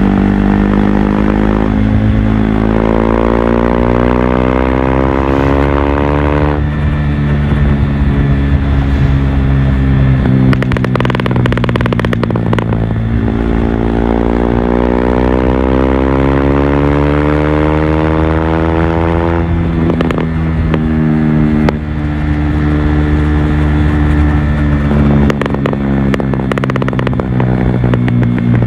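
KTM RC 390's single-cylinder engine pulling hard under way, its pitch rising steadily and then dropping suddenly at a gear change, twice. Between the pulls the throttle closes and the exhaust crackles and pops, and near the end the engine runs at a steadier speed.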